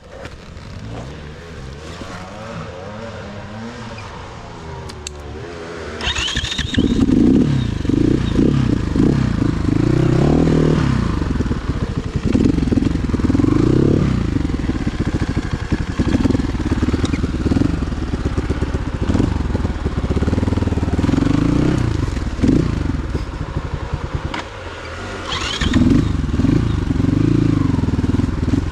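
Motorcycle engine running, its pitch rising and falling as the throttle is worked. It gets much louder about six seconds in, dips briefly near the end, then picks up again.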